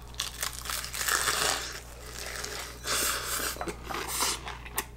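Crispy fried chicken being bitten into and chewed, the fried coating crunching and crackling in several bursts, loudest about a second in and around three seconds in.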